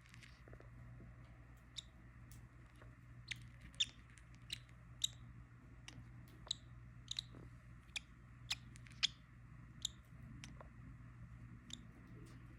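Lovebirds giving short, sharp, high chirps at irregular intervals, a dozen or more, over a faint steady low hum.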